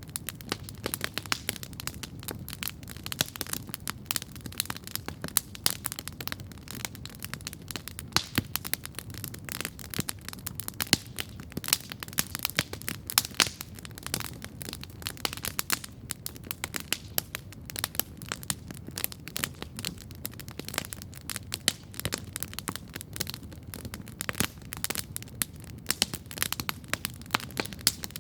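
Wood campfire crackling steadily, with a constant run of sharp pops and snaps over a low rumble of burning.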